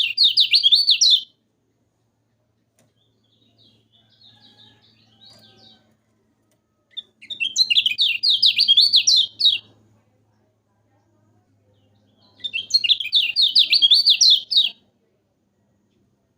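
Kecial kuning songbird singing in three loud bursts of rapid, high warbling trills, each about two seconds long: one at the start, one about seven seconds in and one near the end. Between them is a softer, quieter chatter.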